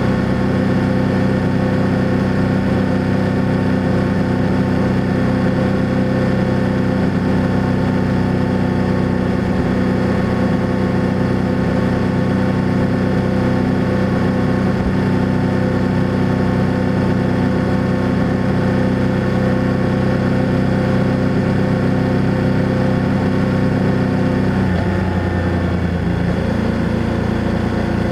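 Parallel-twin engine of a 2024 BMW F800GS motorcycle running steadily, with its exhaust note holding an even pitch. About 25 seconds in, the engine note changes to a new, steady pitch.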